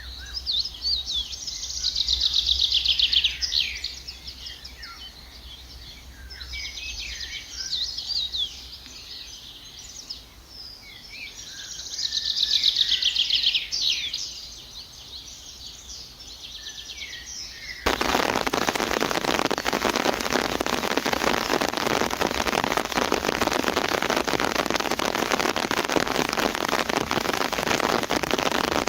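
Songbirds singing: two loud trilled phrases of rapidly repeated high notes, with softer calls in between. About eighteen seconds in, this cuts abruptly to a dense, even patter of crackles.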